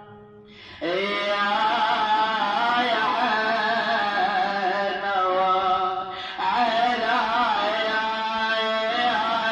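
A man chanting an Arabic lament (nai) in long, wavering melismatic notes, pausing briefly near the start and again about six seconds in.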